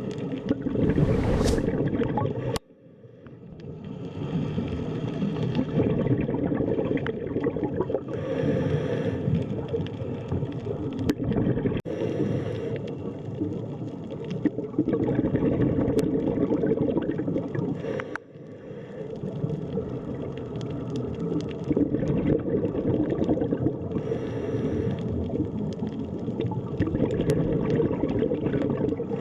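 Underwater sea ambience: a steady low wash of bubbling and gurgling water. A brief rising whoosh comes about a second in, and the sound drops out sharply twice, near 3 s and near 18 s, fading back in each time.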